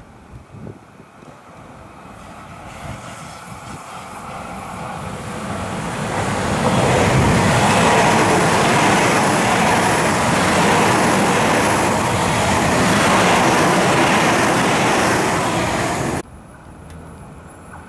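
Tobu 50050 series electric commuter train approaching round a curve and passing close by. Its running noise swells over several seconds and stays loud for about ten seconds as the cars go past, then cuts off suddenly near the end.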